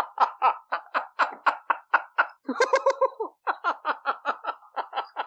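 A person laughing in a fast run of short 'ha-ha' bursts, about four or five a second, with one longer drawn-out laugh about halfway through.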